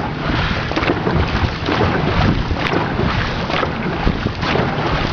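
Dragon boat paddles dipping and splashing in a steady rhythm, about two strokes a second, over rushing water and wind buffeting the microphone.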